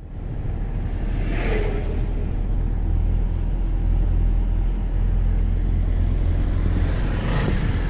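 Steady low rumble of wind and road traffic, with two vehicles passing, about a second and a half in and again near the end.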